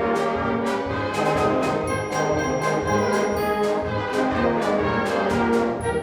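Wind orchestra playing a march: massed brass and woodwinds in full chords over a steady percussion beat of about two strokes a second.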